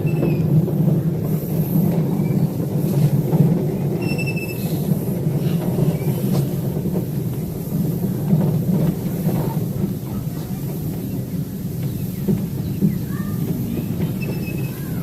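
Cars of a live-steam ride train rolling along the rails, a steady rumble, with a few short high wheel squeals now and then.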